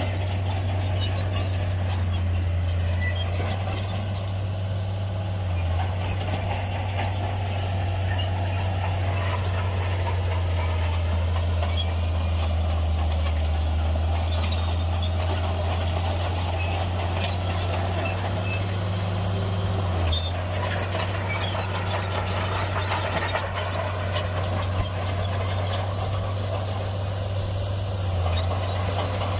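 Heavy diesel engine of a Shantui bulldozer running steadily with a deep, even drone, with faint clicks and clanks over it.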